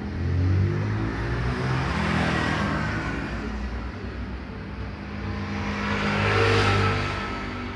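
Kawasaki Z800 inline-four motorcycle engine running through a Spark full-system exhaust with a titanium silencer. The engine note rises and falls twice, loudest about half a second in and again about six and a half seconds in.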